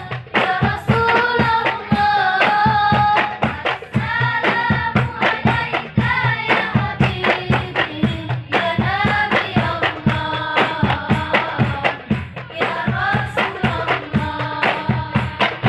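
A song: a voice singing a melody over a fast, steady percussion beat.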